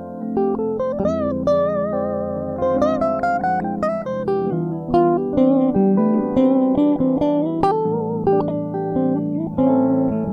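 Solo guitar playing an improvised melody line of plucked single notes, some bent and wavering with vibrato, over sustained lower notes.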